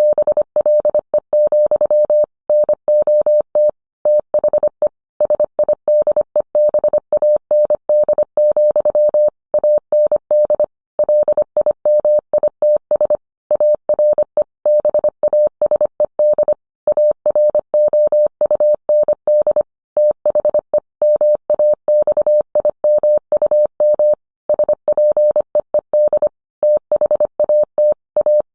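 Morse code: a single steady mid-pitched tone keyed on and off in quick dots and dashes, with longer gaps between letters and words.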